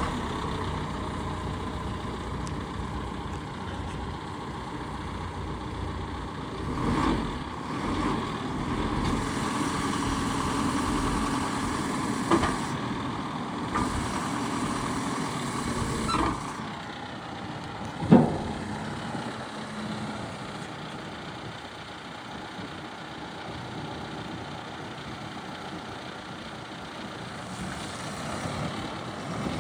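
John Deere 310SL backhoe loader's turbo diesel engine running steadily, with a few sharp knocks partway through.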